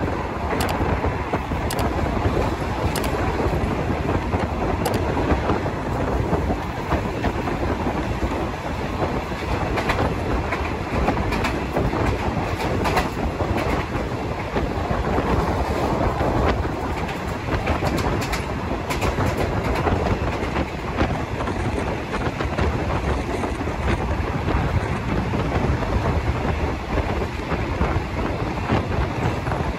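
Running noise of a moving passenger train heard from its carriage window: a steady rumble of wheels on rails, with scattered clicks at irregular intervals as the wheels pass over the track.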